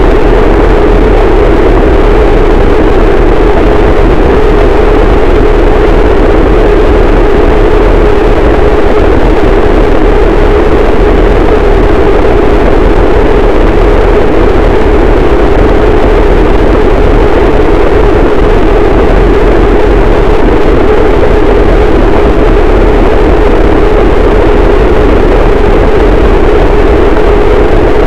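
Harsh noise wall: a very loud, unchanging wall of dense distorted static, with a steady droning band in the lower middle and a deep rumble underneath.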